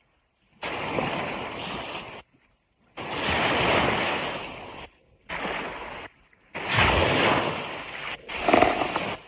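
Ocean surf washing on a beach, heard as about five rushes of a second or two each that cut off abruptly into silence between them.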